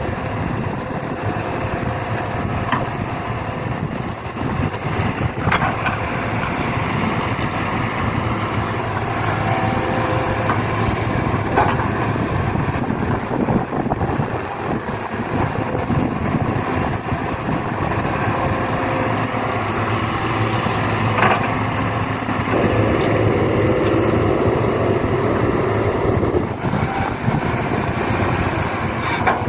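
Excavator at work loading soil into a dump truck: a steady machine sound runs throughout, with a few short knocks. A brighter hum comes in about three quarters of the way through and stops a few seconds later.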